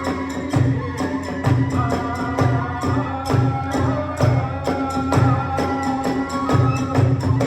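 Kagura hayashi ensemble playing: a taiko drum beating a steady rhythm at about two strokes a second, with clashing hand cymbals and a held, wavering bamboo flute melody over it.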